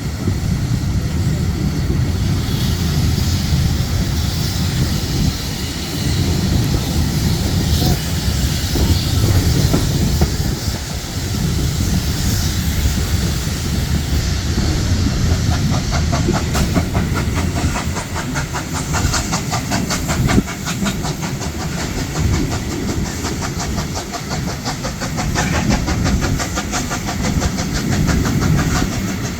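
Historic train running on the rails: a steady deep rumble, with a fast, even beat coming in about halfway through.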